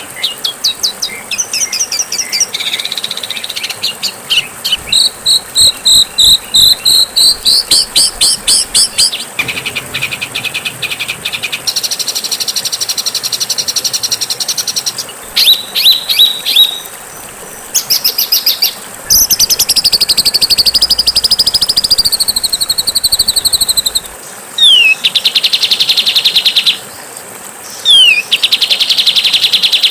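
Compiled songbird tutor recording: a busy stream of high bird calls, fast repeated chips and rattling trills, a long wavering whistle in the middle, and two sharp downward-sweeping whistles near the end.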